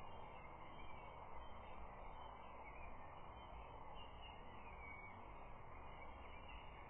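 Steady outdoor hiss picked up by a nest camera's microphone, with faint bird calls chirping now and then over it.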